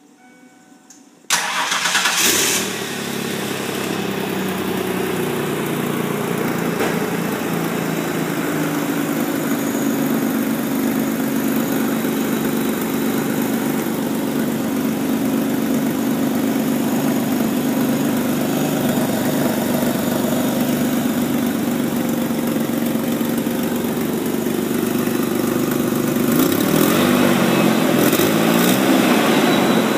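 1994 Ford Ranger's 3.0L Vulcan V6 starting after a brief electronic chime: it catches about a second in, runs fast for a moment, then settles to a steady idle. Near the end it is revved up and down twice.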